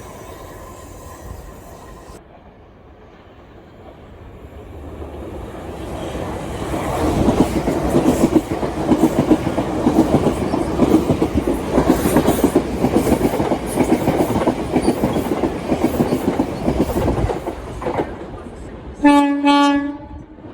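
A passenger train passing through the station without stopping: it builds up and goes by with a loud, rhythmic clatter of wheels over the rail joints, then fades. Near the end there is a short blast of a train horn lasting about a second.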